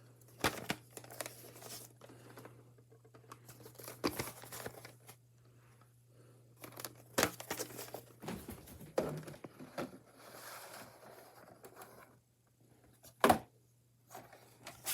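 A VHS tape and its case being handled: scattered rustling, scrapes and light clicks, with one sharper click near the end, over a faint steady hum.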